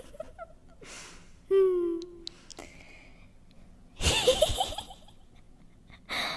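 A woman's voice performing a kuntilanak ghost's flirtatious, teasing laugh: breathy gasps and a short falling moan, then a burst of giggling about four seconds in, and a sharp breath near the end.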